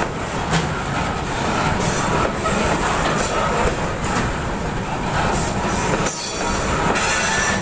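Freight train of ZBKH hopper wagons rolling past close by: a steady rumble and clatter of steel wheels on the rails.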